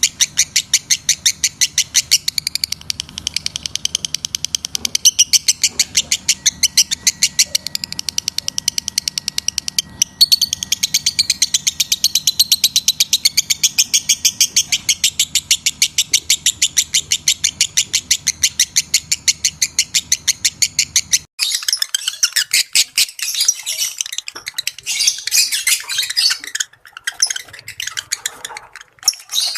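Lovebird chirping in a fast, unbroken series of sharp, high chirps, many to the second. After about 21 seconds the low background hum drops out and the chirping turns more irregular and choppy.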